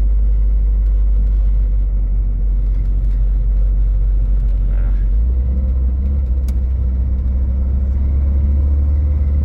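Car driving up a winding hill road, a steady low engine and road rumble that grows heavier about five seconds in.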